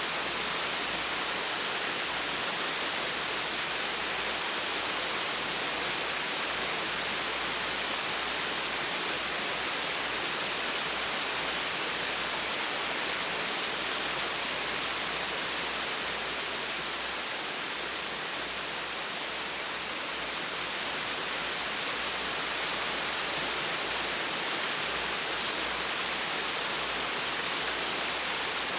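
Small waterfall splashing, a steady even rush of falling water with no other sounds.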